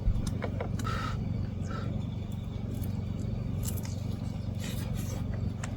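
A person biting into and chewing hot grilled food, with small wet clicks and crunches, over a steady low hum.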